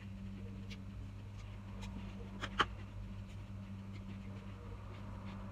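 A person chewing salad, with small wet mouth clicks over a steady low electrical hum, and one sharp click about halfway through.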